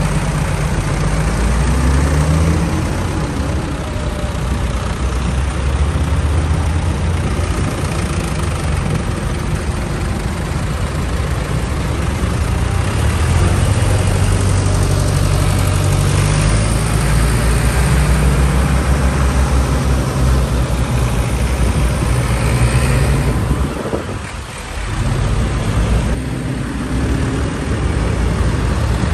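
Vintage tractor engines running, a steady low rumble with the pitch shifting as engine speed changes; the sound drops away briefly about three-quarters of the way through.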